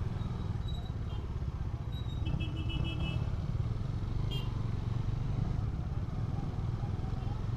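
Motorcycle on the move, with engine and road noise running steadily. A few short high beeps sound about one to three seconds in.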